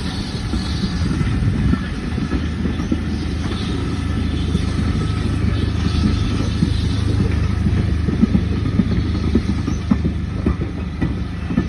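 A train running past on the line: a steady low rumble of the moving train, with a run of sharp wheel clicks over the rail joints in the second half.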